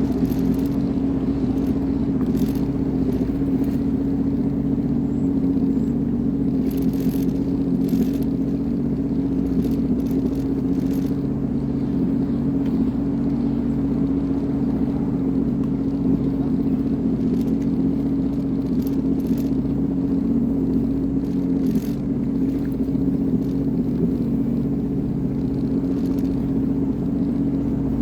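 Sea-Doo Fish Pro personal watercraft engine running steadily at a constant speed, with a few faint brief hisses over it.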